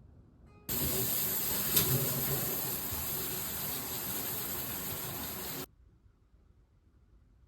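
A steady hissing rush of noise that cuts in abruptly about a second in and cuts off abruptly about a second before the end.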